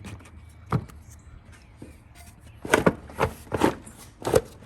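Several sharp knocks and clicks of a loosened engine-bay part being handled and moved out of the way under the car, one alone and then a quick cluster of four near the end.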